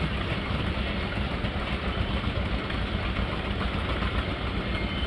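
An engine running steadily at idle, with a fast, even low pulsing.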